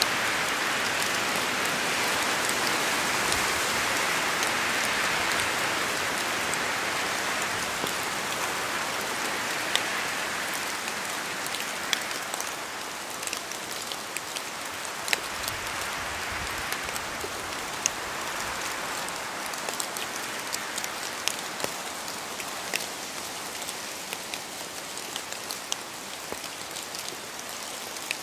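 Steady rain falling, with scattered sharp drips of drops hitting a surface; it eases slightly in the second half.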